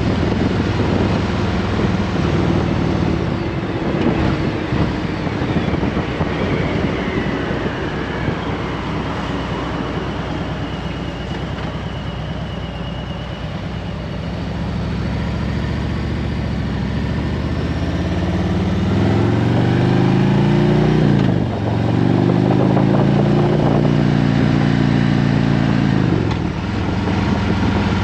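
2021 Harley-Davidson Road Glide Special's V-twin engine running under way. Past the middle it accelerates in a rising pitch, breaks briefly for a gear change, pulls up again, then drops off near the end.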